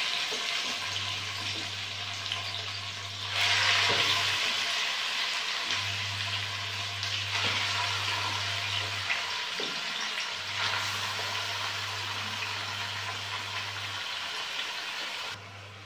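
Marinated chicken pieces sizzling in hot mustard oil in a kadai, a steady hiss that grows much louder about three seconds in and slowly eases off, dropping away just before the end.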